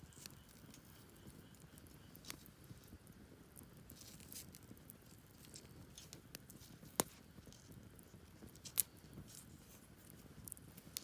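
Campfire crackling softly: scattered small pops, with two sharper snaps about seven and nine seconds in.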